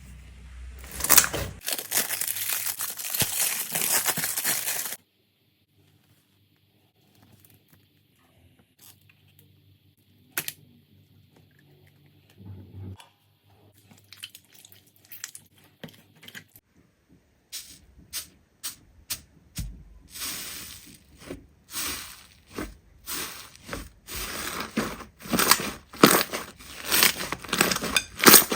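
Slime being squished and pulled by hand, crackling and popping. A dense crackle runs for the first few seconds, then a nearly quiet stretch with scattered small pops, then quick sharp pops and crackles that grow denser and louder toward the end.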